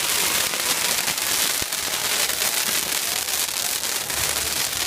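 Large bonfire burning, with a dense, continuous crackling and popping of burning wood.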